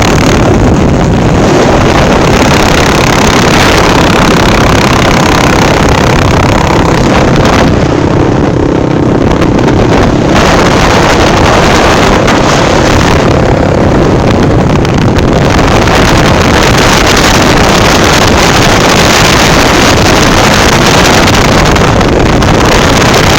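Motorcycle engine running steadily under heavy wind buffeting on the microphone, loud throughout, with the high hiss easing off briefly about eight and thirteen seconds in.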